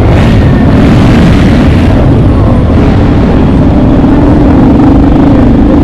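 Motorcycle engine running steadily, with a low hum under dense, heavy rumble on the microphone.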